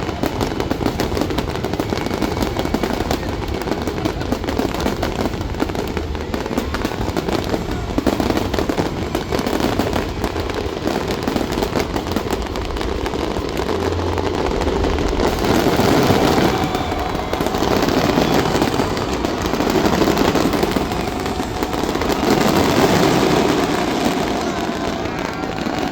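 Aerial fireworks display: a continuous, dense crackle of many small bursts, with no pause.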